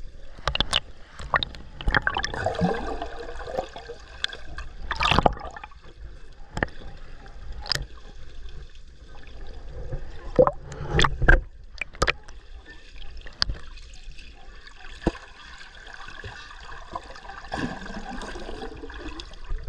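Water sloshing and gurgling around a snorkeler's camera at and below the surface, with scattered sharp clicks and knocks, a cluster of them about ten to twelve seconds in.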